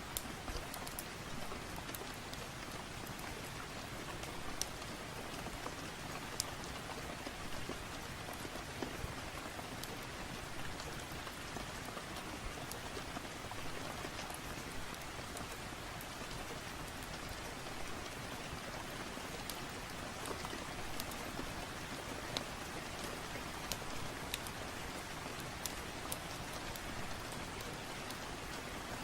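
Steady rain falling, with scattered sharp clicks and ticks throughout.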